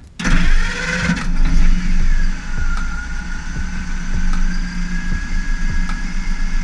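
Ford flathead V8 in a 1950 Ford shoebox running at idle. It comes in suddenly, a little louder and rougher for the first second, then settles into a steady idle.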